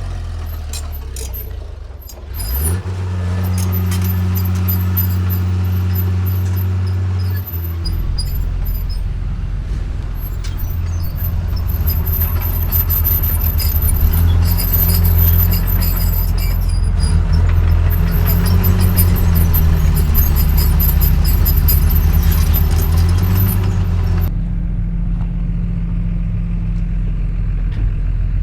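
Heavy diesel earthmoving machine working: the engine drops back and then revs up about two seconds in, and keeps running under load, with metallic clanking and rattling that stops a few seconds before the end.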